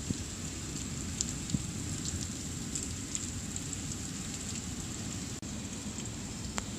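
Hurricane rain falling steadily, with a few sharp ticks scattered through it.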